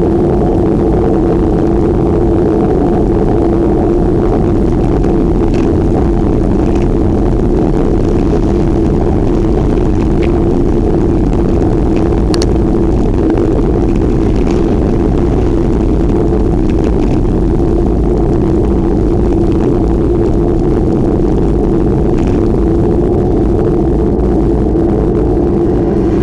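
Steady, loud noise of wind and riding on the microphone during a bicycle ride, with a constant hum and a few faint clicks.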